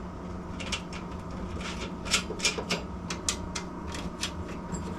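A run of light, irregular clicks and taps: metal parts being handled and fitted together by hand, over a steady low hum.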